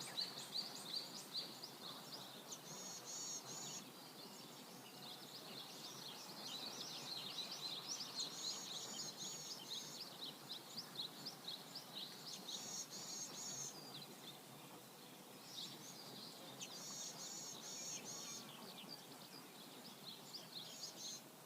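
Songbirds chirping and twittering over the faint, steady rush of flowing river water. One bird repeats a short, rapid phrase about every four to five seconds.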